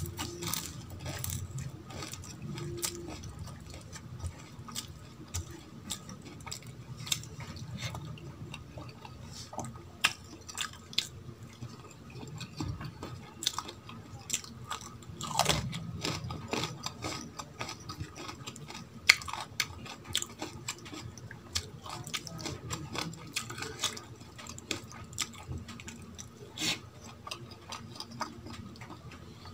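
Close-miked chewing, biting and wet mouth smacks of someone eating dal and rice by hand, with many short sharp clicks scattered throughout and the odd crunchy bite.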